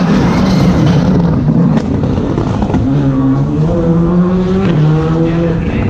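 Rally car engine running at fairly low revs, its pitch stepping up and down several times.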